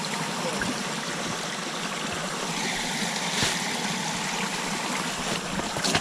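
Steady rushing noise, with a few faint knocks and scuffs.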